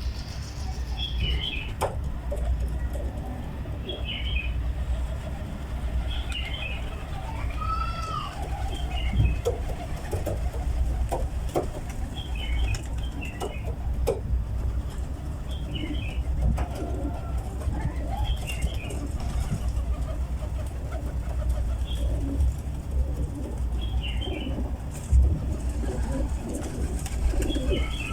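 Domestic pigeons coming down to land: wings flapping and clapping, with pigeon cooing. Short bird chirps repeat every second or two over a steady low rumble.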